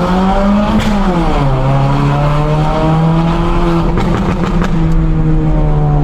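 GM Astra engine pulling under acceleration. Its pitch rises, then drops sharply about a second in at a gear change, then climbs slowly and holds in the next gear. A few short clicks come around four to five seconds in.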